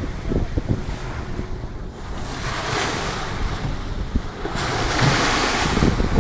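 Wind buffeting a phone microphone over the wash of sea waves breaking against a boat's hull, the rush of water swelling twice.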